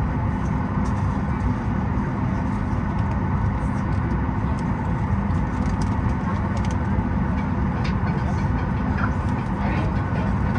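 Steady low rumble of aircraft cabin noise inside a Boeing 737 MAX 8 airliner, with a few faint ticks and clicks over it.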